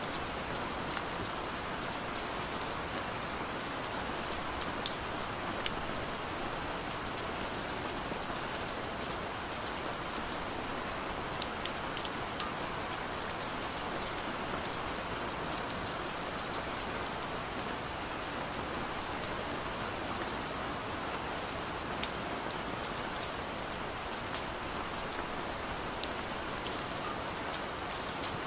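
Steady gentle rain falling, an even hiss with many small drops pattering and ticking on surfaces.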